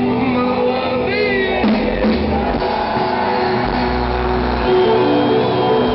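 Rock band playing live through a loud PA, with sustained guitar and vocal tones and a brief shouted vocal about a second in.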